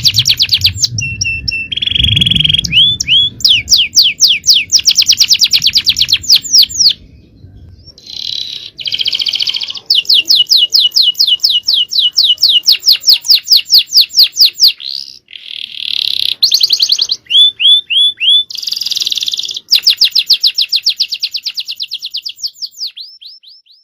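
Male domestic canary singing a long, loud song: rapid trills of repeated high notes, several per second, switching to a new kind of note every second or two, with a brief lull a third of the way through.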